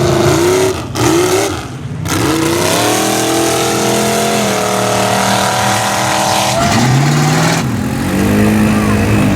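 Mud truck engine revving: a couple of short blips, then the revs climb and are held high for several seconds, drop away, and climb again near the end.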